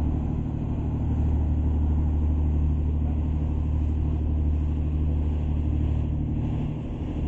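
Harbor cruise boat's engine running with a steady low drone.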